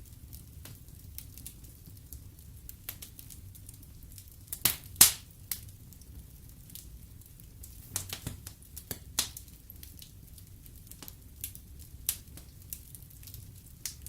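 Fireplace fire crackling: irregular snaps and pops over a low steady rumble. The loudest pop comes about five seconds in, and there is a small cluster of pops a few seconds later.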